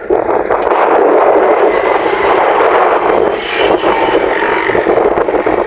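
Loud, steady vehicle noise.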